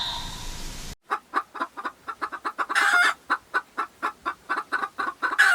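Chickens clucking in a quick run of short clucks, with two longer, louder squawks among them; the clucking starts abruptly about a second in.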